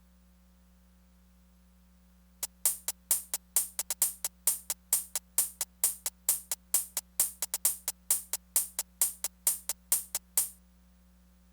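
A Korg Electribe Sampler ES2 playing a drum-machine pattern of short, bright percussive hits, about four a second. It starts about two seconds in and stops suddenly about a second before the end, over a faint steady hum.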